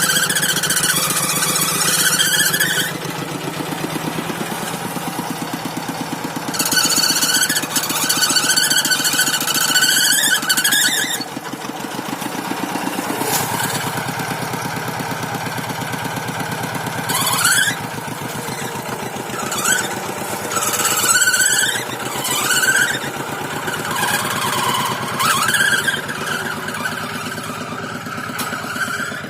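Tractor engine running steadily with an even chugging beat, while high-pitched squeals come and go over it several times.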